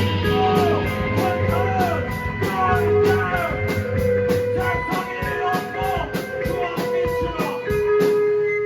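Live rock band playing loud, with distorted electric guitars bending notes over a drum kit. Near the end the drums stop and a held chord rings out.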